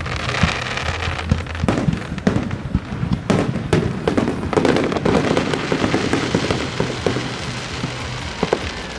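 Fireworks display going off: a string of sharp bangs and booms, with crackling bursts about half a second in and again around the middle. Music plays underneath.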